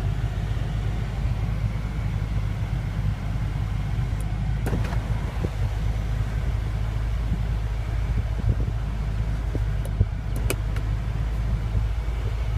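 BMW M5 (F10)'s twin-turbo V8 idling, a steady low drone heard inside the cabin, with a couple of faint clicks.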